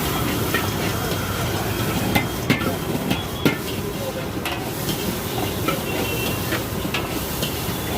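Metal ladle scraping and clanking against a wok as Chinese-style fried rice is stirred, over a steady frying hiss. A few sharp clanks fall between about two and three and a half seconds in.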